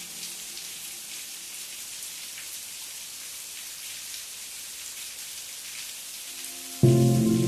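Steady rain falling, an even hiss with fine drop ticks. Near the end a held musical chord comes in suddenly, louder than the rain.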